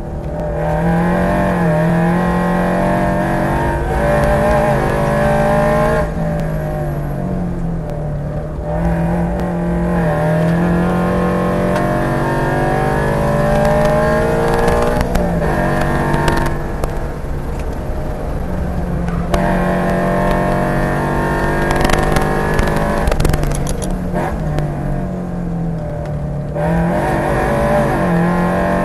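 Toyota GR86's E85-tuned 2.4-litre flat-four engine, heard from inside the car on a hard track lap. Its note climbs repeatedly as it pulls through the gears and drops back at each shift or lift for a corner.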